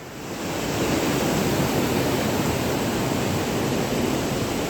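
Waterfall rushing: a steady, even noise of falling water that swells in over the first second and then holds level.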